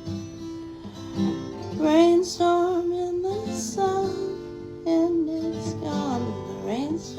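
Acoustic guitar playing, with a voice singing long held notes over it.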